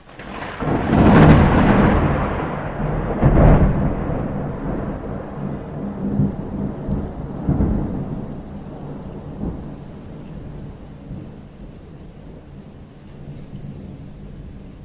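A clap of thunder breaks in and rumbles, with a second loud crack about three and a half seconds in, then rolls away slowly over the next several seconds. Steady rain continues underneath.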